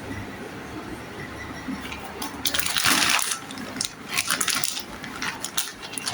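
Crinkling rustle and small sharp clicks of packaging and plastic toys being handled, loudest about three seconds in and then breaking into scattered clicks.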